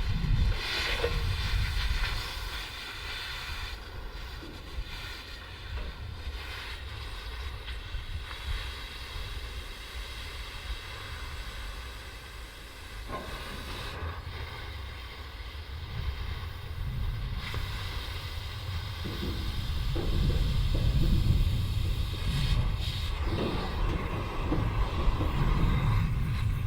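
An engine running steadily with wind rumbling on the microphone, growing louder in the last third.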